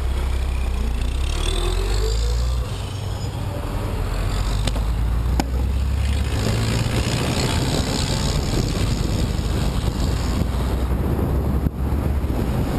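Wind buffeting the camera microphone as a low, steady rumble, with road traffic passing by.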